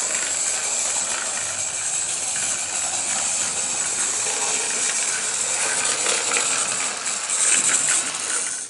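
OO gauge model steam locomotive and its coaches running on the track: a steady, high hissing rattle of the motor and wheels on the rails that cuts off suddenly at the end.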